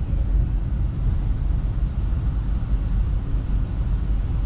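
Steady low rumble of a Hitachi Caravaggio double-decker electric multiple unit running at speed, heard from inside the passenger cabin.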